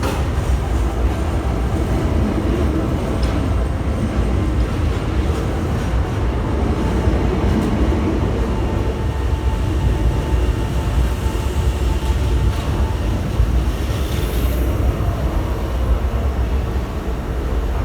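Hankyu electric train pulling out of the platform, a steady loud rumble of motors and wheels on the rails with a few clicks.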